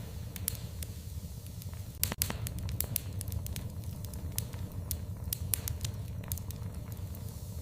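Wood fire in a fireplace crackling: irregular sharp snaps and pops over a steady low rumble, with one louder pop about two seconds in.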